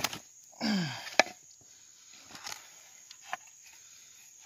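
A man's low groan falling in pitch, then a sharp wooden knock and two lighter knocks as the bamboo pieces of a friction fire set are handled.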